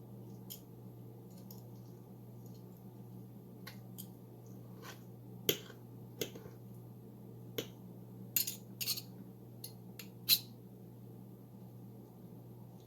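Scattered light clicks and taps of kitchen work at a dish while cooked chicken thighs are shredded, with a steady low hum underneath. The sharpest tap comes about ten seconds in.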